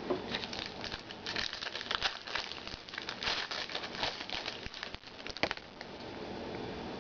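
Trading cards and their packaging being handled: a run of quick rustles and clicks for about five and a half seconds, with a sharper one near the end, then it stops.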